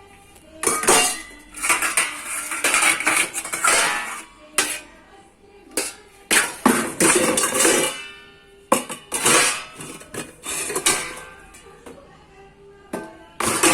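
Washed dishes and utensils clattering and clinking against each other and the dishwasher racks as they are handled and taken out, in irregular bursts with brief ringing after some knocks.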